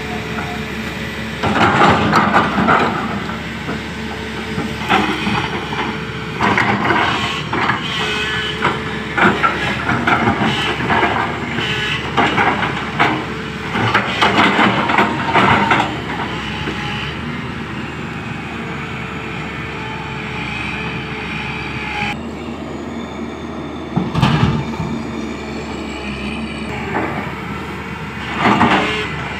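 Komatsu PC200 hydraulic excavator's diesel engine running steadily while it loads dump trucks, with repeated loud bursts of noise over the steady hum, several in the first half and two more near the end.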